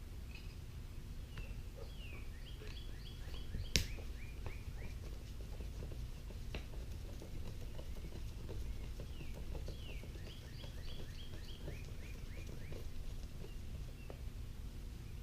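A songbird singing two runs of quick, down-slurred chirping notes, one starting about a second and a half in and the other about ten seconds in, over a steady low hum. A single sharp click about four seconds in, and a fainter one a few seconds later.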